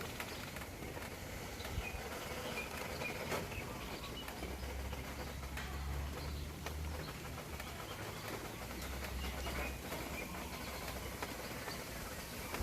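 Small birds chirping in scattered short calls over a steady outdoor hiss, with a few sharp clicks. A low rumble runs from about four and a half to ten seconds in.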